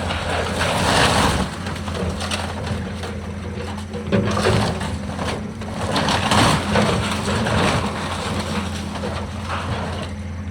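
A heavy machine's engine running steadily, with several loud crunching bursts of demolition debris breaking.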